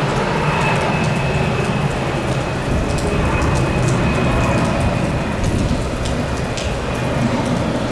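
Heavy rain falling steadily, with a low rumble beneath it.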